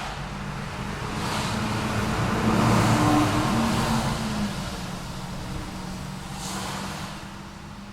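City street traffic: a car passes close, its engine hum and tyre noise swelling to a peak about three seconds in and then fading, over a steady rumble of traffic.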